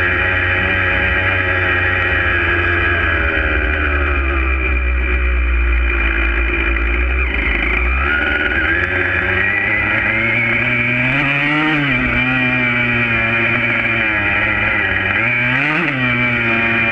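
Yamaha YZ125 two-stroke single-cylinder dirt bike engine running, its pitch rising and falling back as it is revved twice, about halfway through and near the end.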